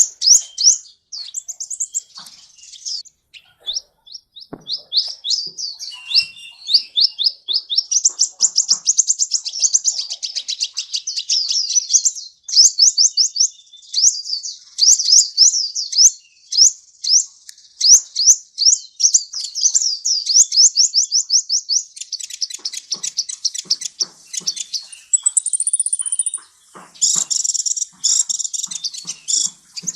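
Sunbird (kolibri) song: long runs of rapid, high, sweeping chirps, several notes a second, with a brief thinner, higher whistle about 25 seconds in.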